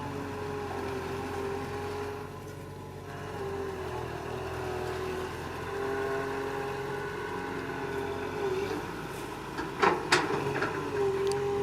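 Excavator engine running steadily, with a few sharp knocks about ten seconds in.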